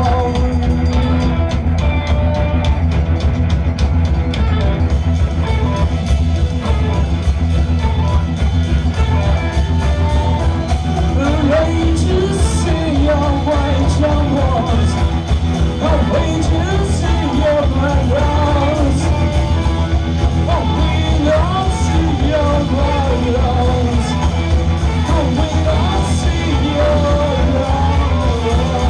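Live rock band with drums, bass guitars and electric guitars playing a dense, unbroken jam, with a male voice singing and yelling over it.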